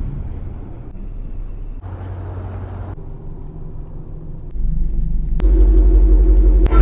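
Chrysler 300 SRT's engine idling with a steady deep exhaust rumble, growing louder and fuller at the exhaust tip in the last second or so.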